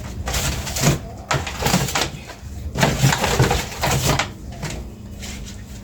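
Rustling and handling noises of grocery packaging being unpacked, in several short bursts with a longer one in the middle, over a low steady hum.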